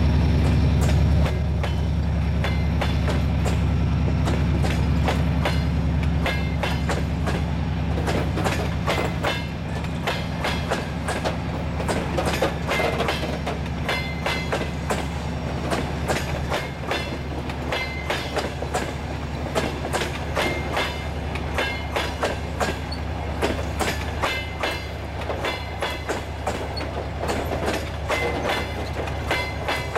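Passenger coaches rolling past, their wheels clicking over rail joints in a continuous, irregular clickety-clack. Under it runs the low drone of the 2TE10M diesel locomotive's 10D100 engine ahead of the train, which drops in level about a second in.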